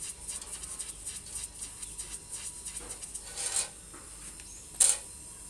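Rubbing and scratching of hands handling parts during the repair, a run of small clicks, with a short hissy swell about three and a half seconds in and a brief, louder, sharp noise burst near the end.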